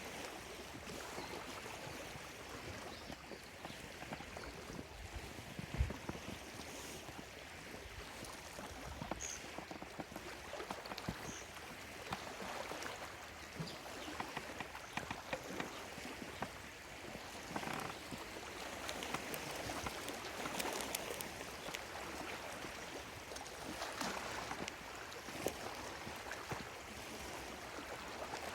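Small lake waves lapping and splashing on the shore in a steady wash, with a few faint, high bird chirps now and then. A single brief low thump about six seconds in.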